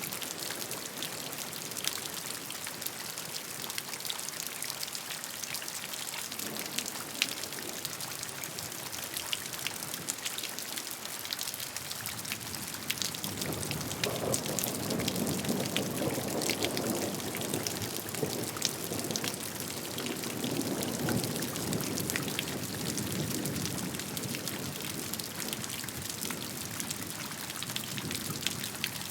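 Steady rain, with many separate drops ticking sharply over an even hiss. About halfway through a fuller, deeper rush of water swells up for some ten seconds, then eases back.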